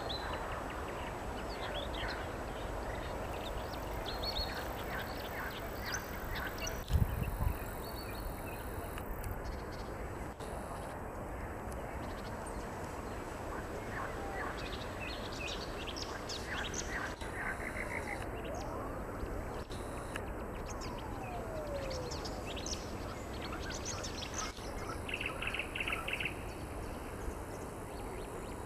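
Nightingale singing in varied phrases of short whistles, clicks and fast trills over a steady background hiss. A brief low thump sounds about seven seconds in.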